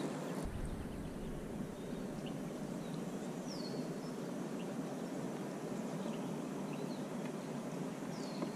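Steady outdoor background hiss with a few faint, short bird chirps, two of them falling in pitch: one about three and a half seconds in and one near the end.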